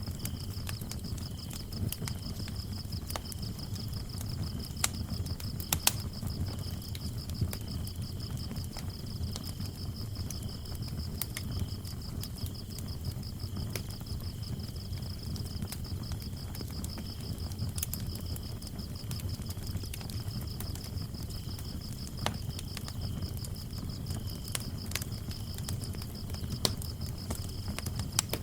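Wood fire crackling with scattered sharp pops over a low rumble of flames, while crickets chirp in a steady, fast trill.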